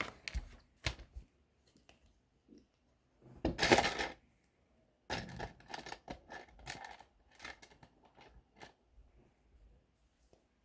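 Plastic LEGO pieces clicking and clattering as they are handled and pressed together, in scattered small clicks. The loudest is a short clatter about three and a half seconds in, followed by a busier run of clicks from about five to seven seconds.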